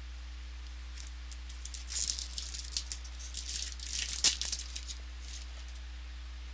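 Trading cards and their packaging being handled: an irregular run of crisp crinkling and rattling rustles that begins about a second and a half in and stops around five seconds, with one sharp crackle just after four seconds.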